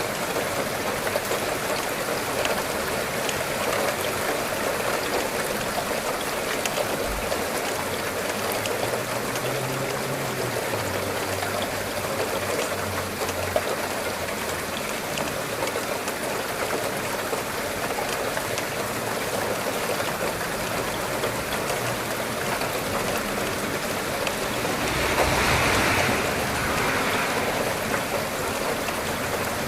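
Steady rain: an even hiss of falling and running water that swells louder for a couple of seconds near the end.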